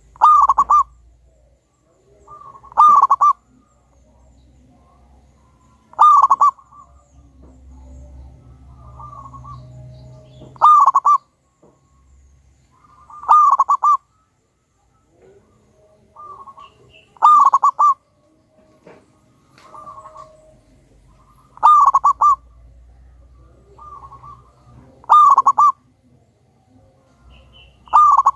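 Zebra dove (perkutut) singing its cooing song over and over: a loud phrase about every three to four seconds, each led by softer coos.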